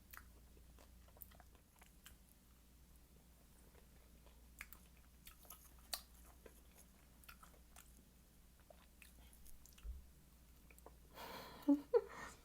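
Close-miked chewing of kiwi fruit: soft, scattered wet mouth clicks and smacks, with a louder stretch of chewing in the last second or so.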